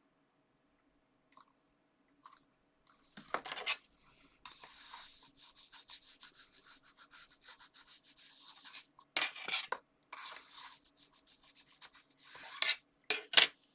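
Paper and card being handled, pressed and rubbed down by hand, in several short rustling bursts, the loudest near the end.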